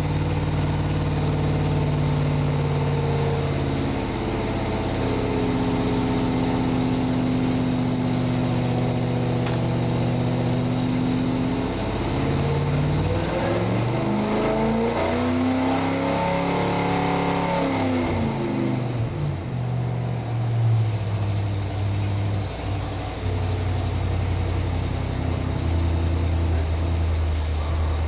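Performance V8 running on an engine dynamometer during a 2,000 to 4,000 RPM test pull. It holds at a steady speed, then revs steadily upward under full load for about five seconds. It cuts back sharply near two-thirds of the way through and settles to a low idle.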